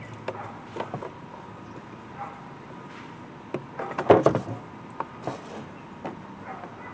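Scattered small clicks and knocks of hands and tools working a sensor loose from the truck's air intake, with a louder cluster of knocks about four seconds in.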